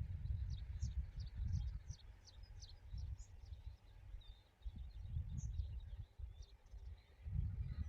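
Small birds chirping in quick, short high notes, busiest in the first few seconds, over gusts of wind buffeting the microphone.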